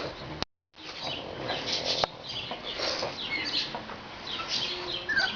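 Small pet birds chirping, many short high chirps in a scattered run. The sound drops out completely for a moment about half a second in.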